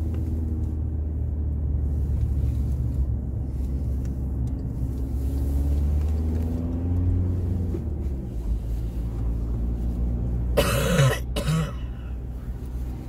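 Steady low rumble of a car heard from inside the cabin while driving, with a person coughing twice about ten and a half seconds in.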